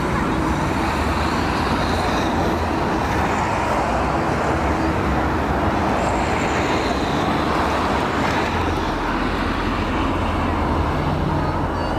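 Strong storm wind rushing and buffeting the microphone, with a constant low hum underneath.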